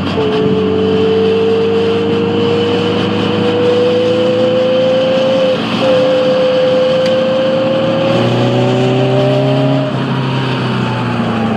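Caterham R300's four-cylinder engine pulling under load, its pitch climbing slowly with a brief break about halfway through, then falling away near the end as the throttle is lifted. Wind rushes past the open cockpit.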